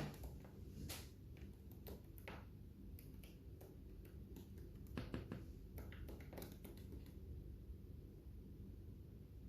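Lovebirds eating: faint, irregular small clicks and cracks of beaks husking seeds, thinning out near the end.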